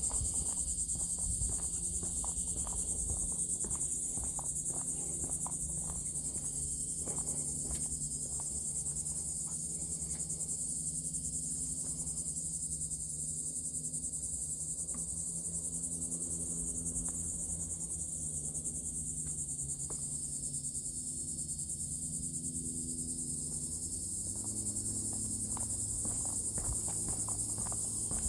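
Steady high-pitched chorus of insects droning without a break, with faint irregular taps and a low steady hum underneath.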